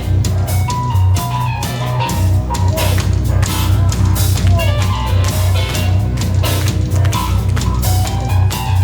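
Live rock band playing loud: a drum kit struck in quick, dense hits over a heavy bass guitar line, with held keyboard notes on top.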